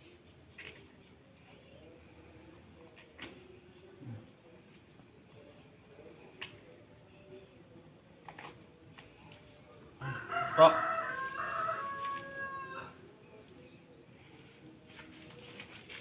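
A loud, drawn-out bird call about ten seconds in, lasting nearly three seconds with held steady notes, over a faint steady high insect chirp and a few soft clicks.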